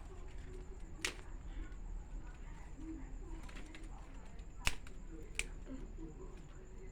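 Small dry twigs snapping three times, once about a second in and twice near the five-second mark, as kindling is broken up for a campfire.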